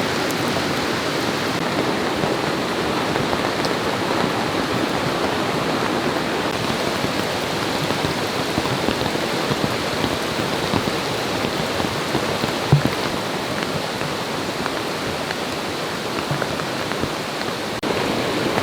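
Rain pouring steadily in a dense, even hiss. There is one brief sharp tap about two-thirds of the way through.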